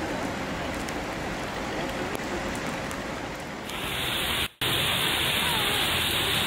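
A steady outdoor hiss, then a little over halfway through a louder sound of heavy rain pouring down on trees, grass and pavement takes over. After a momentary dropout it goes on as a steady downpour.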